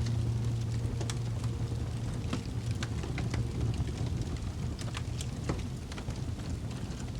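Fireplace crackling: irregular small pops and snaps over a steady low rumble and hiss. A low held music note fades out in the first half.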